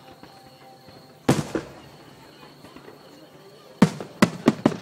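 Aerial fireworks shells bursting: one loud boom about a second in, then a quick string of bangs, about four in a second, near the end.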